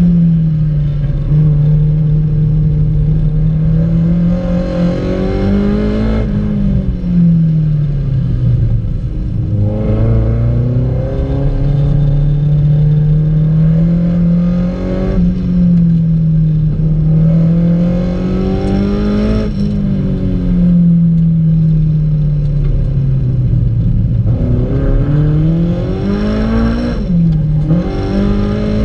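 Car engine heard from inside the cabin while lapping a race track, its note rising under acceleration and falling away as it lifts and slows for corners, several times over. Near the end the pitch drops sharply and climbs straight back.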